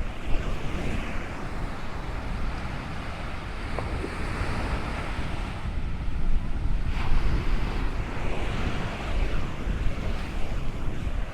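Ocean surf washing up the shore in repeated swells, with wind buffeting the microphone in a steady low rumble.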